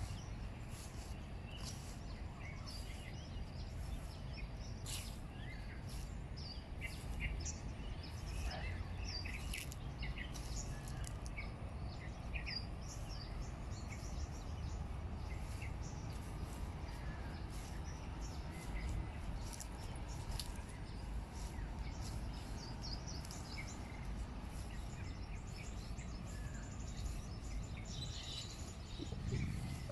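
Birds chirping with many short, high calls scattered throughout, over a low steady rumble of outdoor background noise.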